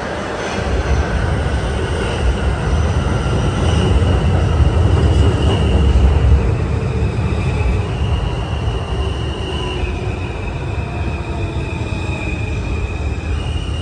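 New York subway train running at speed, heard on board: a heavy low rumble of wheels on rail, loudest a few seconds in, with thin high tones above it that hold and then step to a new pitch several times.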